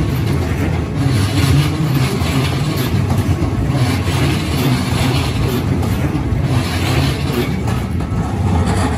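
Hokuso Railway 7500 series electric commuter train passing close by, with the steady noise of its wheels and running gear on the rails.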